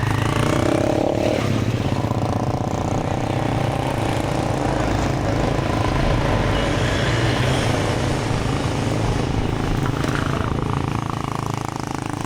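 Street traffic: vehicle engines running steadily, with a brief pitched sound in the first second and a half.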